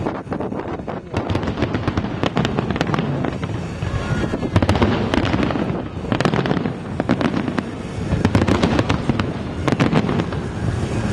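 Aerial fireworks display in a dense, continuous barrage: many shell bursts going off in quick succession, overlapping with crackling.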